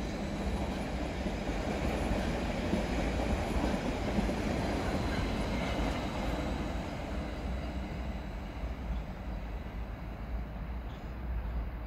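Stadler FLIRT electric multiple unit running past on the rails, a steady rolling and running noise. The sound fades over the last few seconds as the train draws away.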